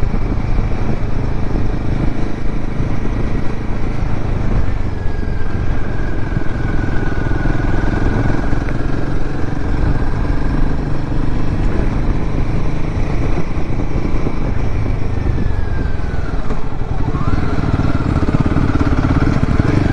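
Royal Enfield Himalayan 450's 452cc single-cylinder Sherpa engine running steadily under way. A thin whine rides over the engine; it falls away about fifteen to sixteen seconds in and comes back rising a second later, as the engine's speed changes.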